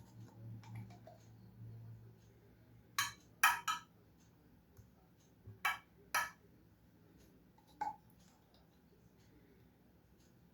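Kitchen dishes and utensils being handled: a handful of sharp clinks and knocks in two quick clusters and one single one, over a low hum that fades out after about three seconds.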